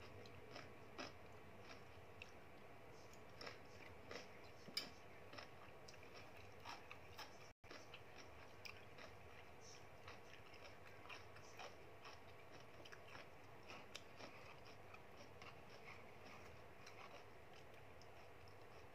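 Quiet close-up chewing of a person eating, with many small scattered clicks throughout and one sharper click about five seconds in.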